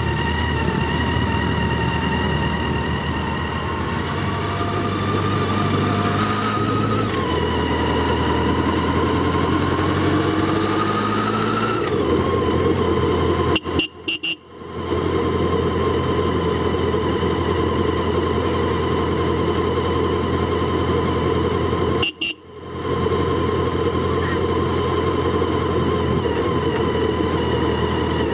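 Motorcycle engine running steadily on the move, its pitch climbing as it speeds up about a third of the way in. The sound cuts out suddenly for a moment twice, near the middle and about two-thirds through.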